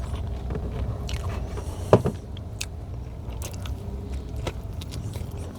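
A person biting into and chewing a homemade chicken wrap with crisp lettuce, close to the microphone, with small crunching and crackling sounds. There is one sharp click about two seconds in, over a low steady hum.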